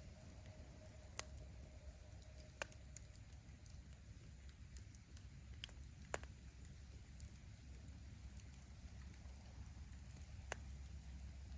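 Firewood burning in an open bonfire: a faint low rumble of the flames with a few scattered sharp pops and cracks from the wood, about five in all, the loudest around six seconds in.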